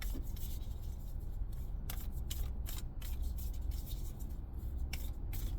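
A deck of oracle cards being shuffled and handled: a string of quick, papery swishes and flicks at an uneven pace, over a steady low hum.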